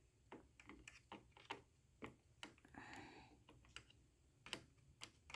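Faint, irregular light clicks and taps of small hard parts being handled, about fifteen in a few seconds.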